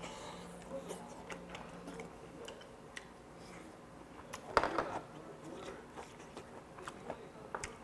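A man chewing and biting into boiled chicken, close to the microphone, with soft wet mouth clicks throughout. There is one louder smacking burst about halfway through.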